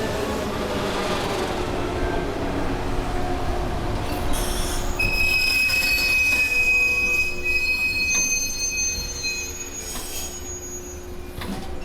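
Electric train on the Sanyo Main Line braking into a station, heard from inside the carriage. A whine falls in pitch as it slows, then a high, steady brake and wheel squeal sets in about four seconds in and eases off near the end as the train comes to a stop.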